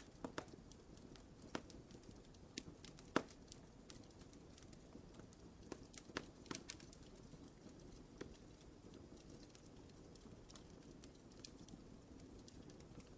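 Wood fire crackling in a fireplace: irregular sharp pops and snaps over a low, steady rush of burning, with the loudest pop about three seconds in and the crackles thinning out in the second half.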